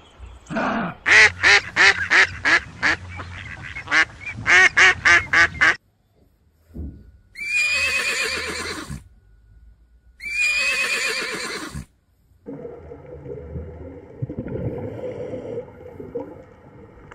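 A duck quacking in a rapid run of about a dozen quacks with a short break in the middle, then a horse whinnying twice, each call lasting about a second and a half, followed by a steady hum.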